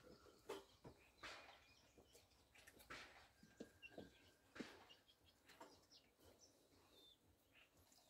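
Near silence, with faint scattered bird chirps and light clicks.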